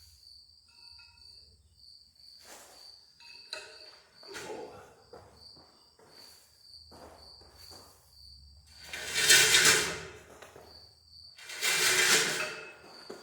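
Crickets chirping steadily, with a few light knocks and two loud rasping noises, each about a second long, around nine and twelve seconds in, from a heavy disc harrow gang being wrestled into place by hand.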